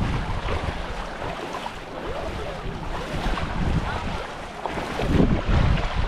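Wind buffeting the microphone over the wash of small waves at the shoreline, with a stronger gust about five seconds in.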